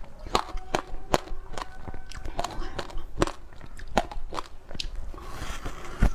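Close-miked biting and crunching of frozen passion-fruit ice: sharp, irregular cracks about one to two a second, with a brief grinding crunch and the loudest crack near the end.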